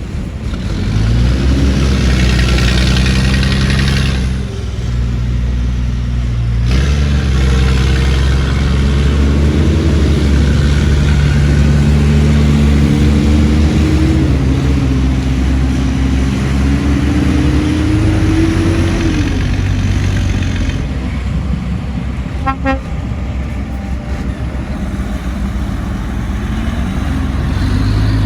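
Heavy diesel construction machinery running, the engine note rising and falling as it revs and works under load.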